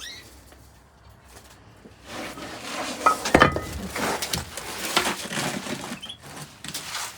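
Irregular clattering and clinking of hard objects being handled, starting about two seconds in, with short ringing tones among the clicks.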